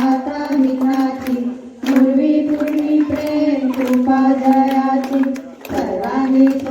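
A group of children's and women's voices singing together in unison, in long held phrases with short breaths between them, over regular hand clapping that keeps the beat.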